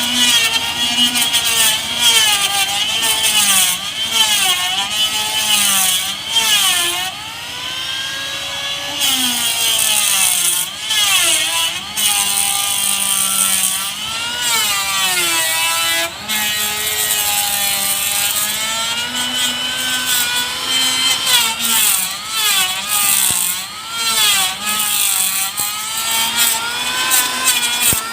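Handheld power tool cutting or shaping boat planking wood. Its motor runs continuously, the pitch dipping and recovering again and again as the tool bites into the wood and eases off.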